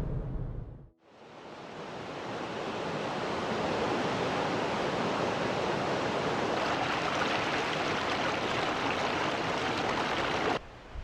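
Mountain stream rushing: a steady, even roar of water that fades in after about a second and cuts off abruptly near the end. A low rumble dies away in the first second.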